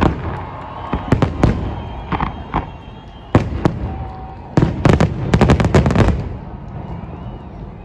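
Fireworks salute exploding: separate booms through the first few seconds, then a quick volley of many bangs about four and a half to six seconds in, fading into a rolling echo.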